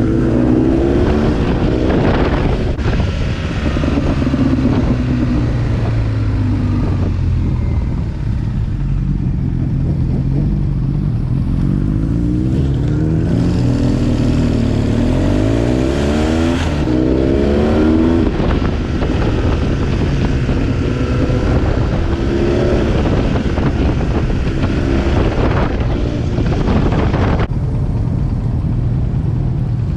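BMW R 1200 GS boxer-twin engine with an SC Project exhaust, running under way, its note rising and falling with the throttle, with several rising sweeps in the middle as it accelerates.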